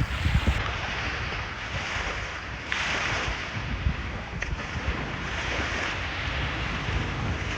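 Wind buffeting the microphone in gusts over a steady rush of surf, with the rushing growing brighter a little under three seconds in.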